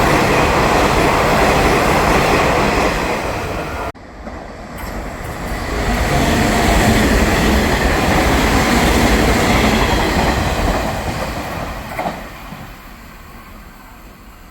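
A Nishitetsu electric commuter train passing close by, its wheels rumbling and clattering on the rails, cut off abruptly about four seconds in. A second train then rises, passes loudly for several seconds and fades away.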